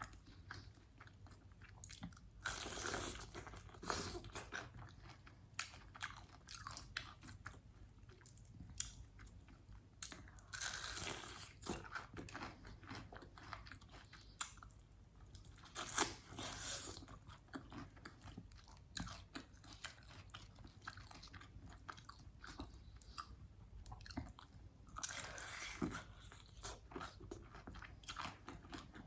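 Close-up eating sounds: crunchy bites into crispy fried chicken wings followed by chewing, with loud crackling crunches about three seconds in, again around eleven and sixteen seconds, and near the end, and softer chewing clicks between.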